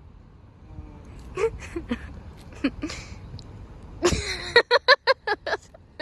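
A person's indistinct vocal sounds over a low background rumble, ending in a quick run of about five short bursts, roughly four a second.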